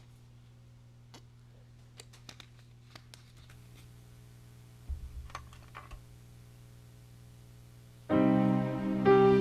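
A quiet room with a steady low hum, a few scattered clicks and a low thump. About eight seconds in, piano music begins, playing slow chords and notes.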